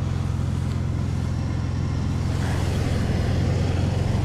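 Truck engine running steadily while driving, a low drone that grows a little louder about halfway through.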